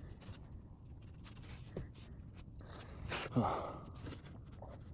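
Quiet rustling and light scratching of fabric and thread being handled during hand sewing, with a brief louder noise a little past three seconds.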